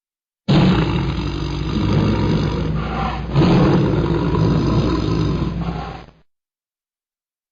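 Tiger roaring twice in close succession. The first roar starts abruptly about half a second in, and a second, louder one begins a little after three seconds. The sound cuts off at about six seconds.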